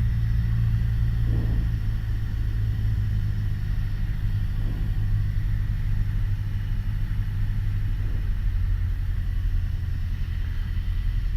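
Steady drone of a Piper Warrior's four-cylinder piston engine and propeller, heard inside the cockpit, holding an even note at approach power.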